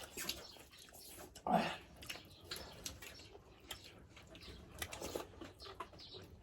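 Close-up mouth sounds of eating dhido and sukuti: chewing with small wet clicks and smacks, and one brief louder sound about a second and a half in.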